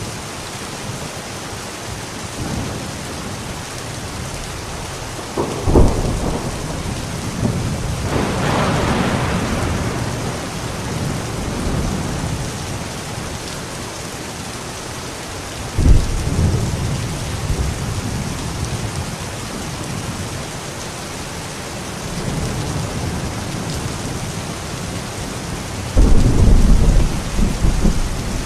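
Steady rain with thunder: sudden thunderclaps come about six seconds in and about sixteen seconds in, with a rolling peal between them. The loudest, longest clap is near the end.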